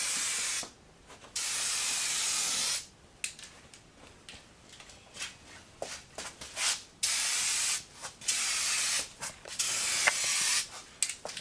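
Paint being sprayed in separate hissing bursts, a longer pass early on and several short passes near the end, laying on a light coat.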